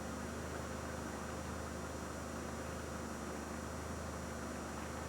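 Steady hum and hiss with no distinct event: the background noise of an early-1990s camcorder's motor and tape, over faint outdoor ambience.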